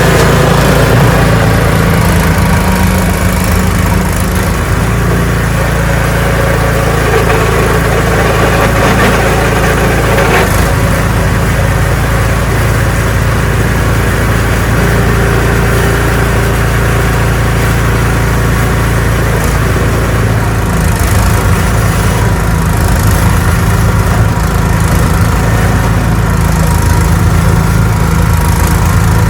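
Ariens 624E snowblower's engine running steadily while clearing snow.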